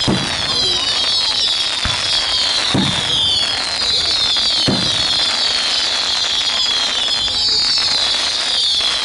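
Fireworks display: a dense, continuous high crackle, with a few deep booms about 2, 3 and 5 seconds in.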